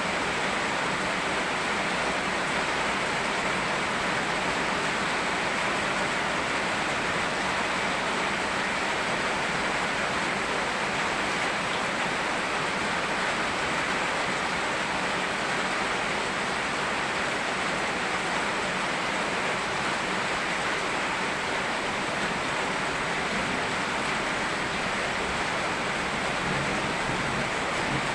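Rain and a flowing river together, making a steady, even rush with no separate drops or splashes standing out.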